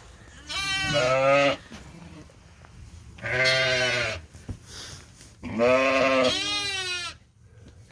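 Sheep bleating three times; the last bleat is the longest, close to two seconds.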